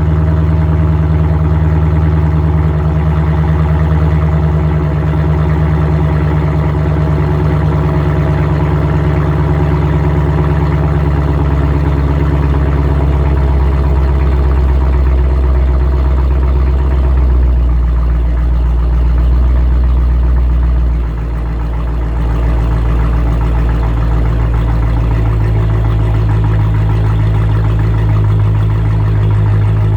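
Straight-piped Dodge Challenger exhaust idling steadily with a deep, loud rumble. The idle pitch shifts slightly, with a brief dip in level about two-thirds of the way in.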